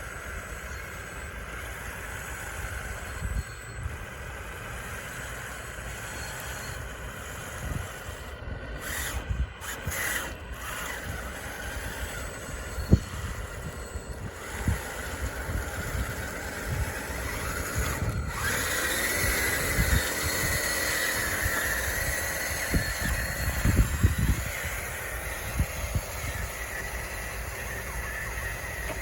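Small electric drive motors and gearing of an RC construction machine whining as it works, with scattered knocks and clunks. About two-thirds of the way through, the motor pitch rises and the whine grows louder.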